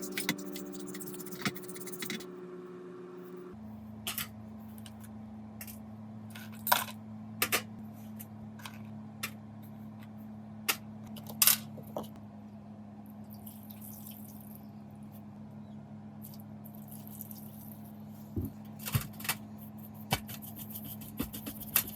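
Scattered sharp clicks and clinks of small metal parts and tools being handled, over a steady low hum that shifts pitch a few seconds in.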